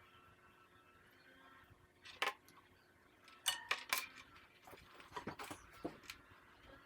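Light handling noises of small hard parts: a scattering of sharp clicks and clatters, loudest about two seconds in and again around three and a half to four seconds in, with a few softer ones near the end.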